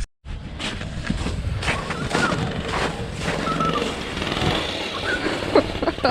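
A small vehicle's engine running steadily under heavy rushing noise, with a few short high-pitched voice sounds over it.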